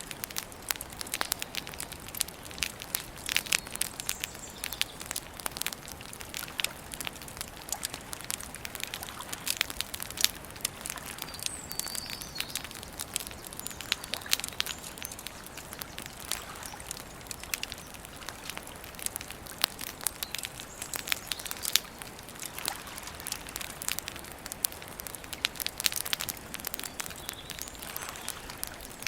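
Wood campfire crackling, with frequent sharp pops and snaps, and a few faint high bird chirps over it.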